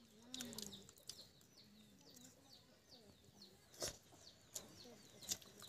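Faint, repeated high chirps of small birds or chicks, a few a second, with a sharp click about four seconds in and another a little after five seconds.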